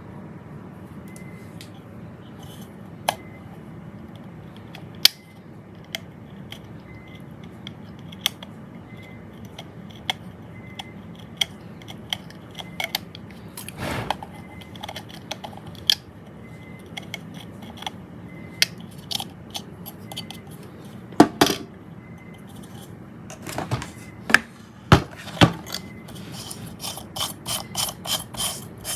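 Scattered sharp clicks and taps of small tools and bulb parts being handled, over a steady low hum. A few louder knocks come in the second half, and a quick run of clicks, about five a second, comes near the end.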